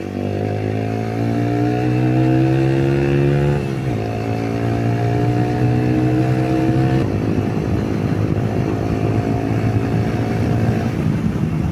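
Yamaha YBR 125 motorcycle's single-cylinder engine accelerating under a rider: the engine note climbs, drops sharply once about four seconds in at an upshift, climbs again and then holds steady at cruising speed.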